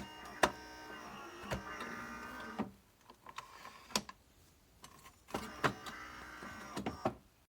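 A small electric motor whining in two runs, the first about two and a half seconds long and the second about two seconds, with sharp clicks at the start and in between.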